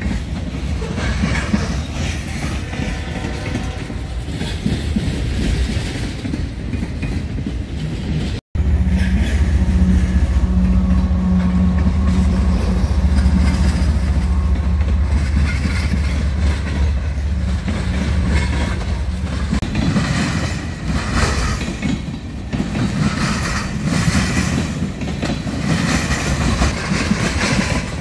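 Freight train rolling past: covered hopper cars first, then a CSX diesel locomotive passing close with its engine's deep, steady drone. Tank cars follow, their wheels clacking irregularly over the rails.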